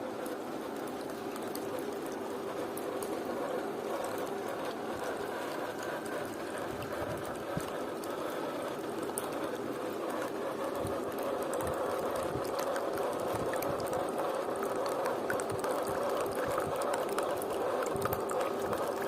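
Water running steadily from a homemade bottle waterfall, a continuous splashing and bubbling that grows a little louder over the stretch.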